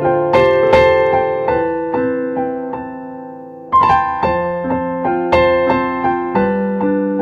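Solo keyboard playing in a piano voice: slow, gentle broken chords, one note after another ringing and fading, with a fresh chord struck about halfway through and again near the end.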